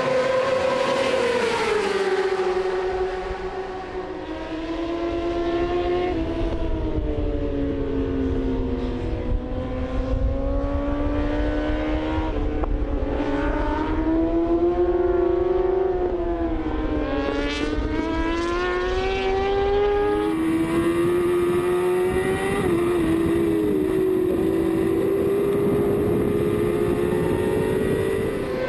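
Superbike racing engines at high revs, their note climbing and dropping over a few seconds at a time as the bikes accelerate and slow.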